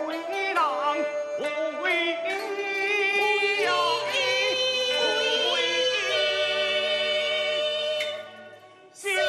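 A singer in a gezaixi (Taiwanese opera) aria, singing ornamented gliding phrases with instrumental accompaniment and then holding a long note with vibrato. The voice drops away near the end before a new phrase begins.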